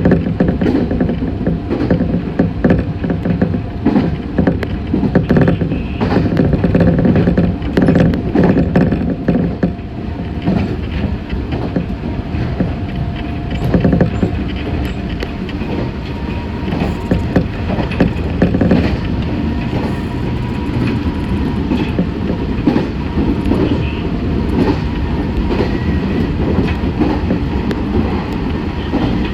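Meitetsu 6500 series electric train running at speed, heard from inside the front car: a steady rumble of wheels on rail with repeated clattering clicks, heaviest in the first third.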